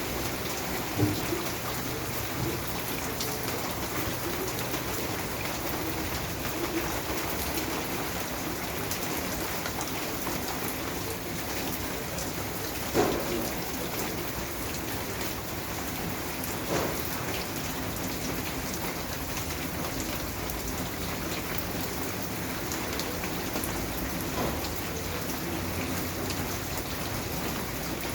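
Steady rain falling, an even hiss of drops on a surface, with a few louder single taps standing out, the loudest about halfway through.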